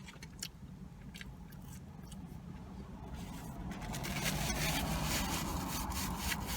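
Crinkling and rustling of a paper fast-food wrapper, scattered crackles at first and then thicker and louder from about halfway in, over a steady low rumble.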